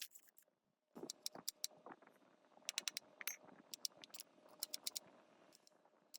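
Light metallic clinking and tapping in quick, irregular clusters, like small metal parts being handled, over a faint steady hum.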